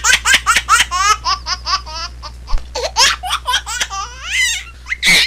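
Baby laughing in rapid, high-pitched bursts of giggles, with a short pause about two seconds in, then a rising squeal and a loud shriek near the end.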